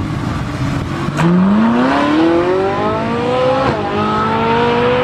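A car engine launches hard about a second in and revs up, its pitch climbing steadily. It dips briefly at an upshift a little before four seconds in, then climbs again in the next gear, as in a drag race run.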